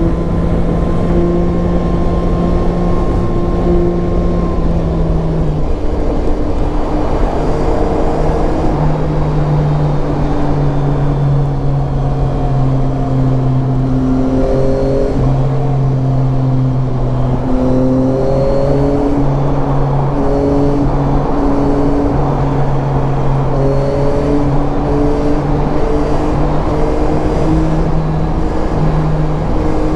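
Yamaha Tracer 9's inline three-cylinder engine running under way, mostly holding a steady pitch and then rising and dropping back several times in the second half, over a steady rush of wind noise.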